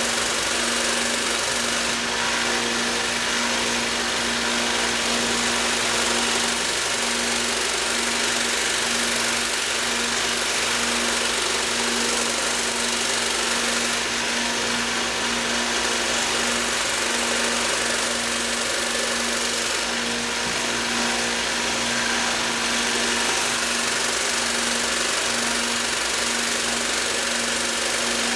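Belt grinder running steadily with a fine micron abrasive belt, a constant motor hum under a high belt hiss, as a knife edge is sharpened toward a polish.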